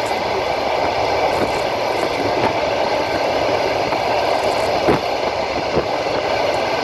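A passenger train running along the track, heard from a carriage window: a steady rushing noise of wheels on rails, with a couple of faint wheel knocks in the second half.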